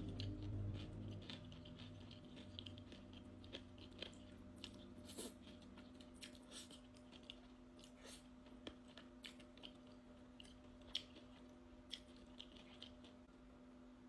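Faint close-up chewing with soft wet mouth clicks and smacks, several a second and irregular. The mouth sounds are typical of a mukbang eater working through a mouthful of noodles. A faint steady hum runs underneath.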